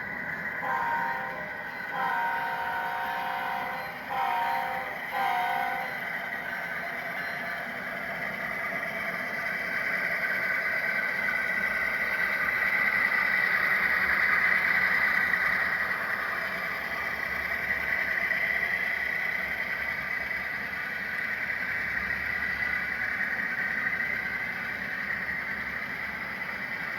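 GE diesel locomotives on an empty Union Pacific coal train sound a multi-chime horn in four blasts, long, long, short, long: the grade-crossing signal. The train then passes with a steady rumble of wheels on rail and a high ringing tone, loudest about halfway through.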